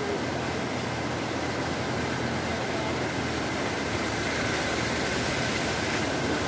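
Teesta river in flood, a steady rushing roar of fast water.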